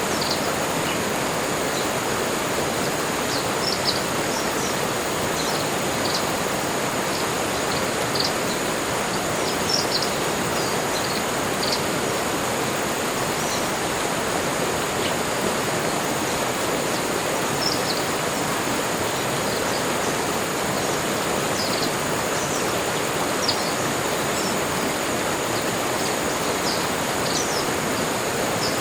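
Tropical forest ambience: a steady rush of flowing water like a stream, with short high bird chirps scattered throughout and a thin, steady high-pitched tone above them.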